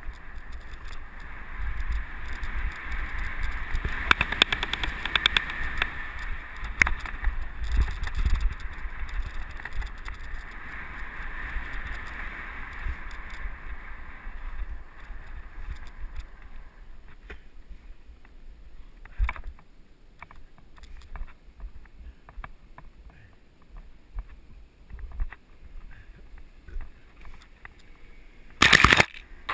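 Mountain bike riding heard from a helmet camera: wind rushing over the microphone and tyres on a dirt trail with rattles, dying down about halfway through. After that only occasional knocks, then a loud rustling burst near the end.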